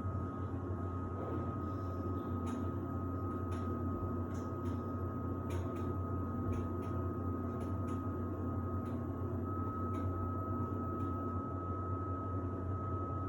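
Samsung WD70T4047CE washer-dryer in its drying phase: a steady low hum from the drying fan and turning drum, with a constant thin high whine over it and occasional faint ticks.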